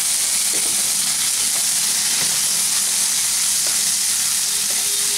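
Rice, tomato and green chillies with ginger paste sizzling steadily in hot mustard oil in a nonstick kadai, with a wooden spatula stirring and scraping through the mixture.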